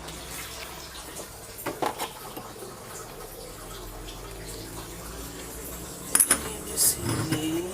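Light metallic clinks and taps of tools and parts during work on a twin-tub washing machine's pulsator: a few small taps about two seconds in, and a louder cluster of clinks about six seconds in.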